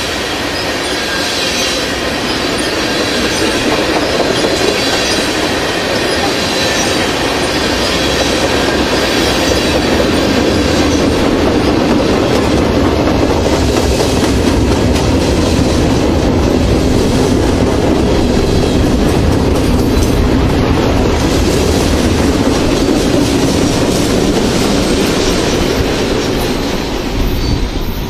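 A freight train rolling past close by, tank cars and then continuous-welded-rail cars, with steady wheel-on-rail noise, rhythmic clickety-clack and a high wheel squeal in the first half. The noise falls away suddenly at the very end as the last car clears.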